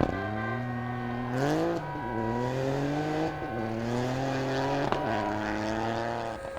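Rally car engine accelerating: the revs climb, drop sharply at an upshift about two seconds in, then rise slowly and steadily through the next gear.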